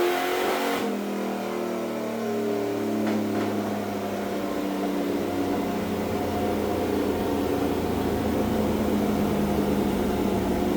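Race engine running on a dyno during break-in. The revs fall away at the start, then hold at a steady speed that creeps slightly upward.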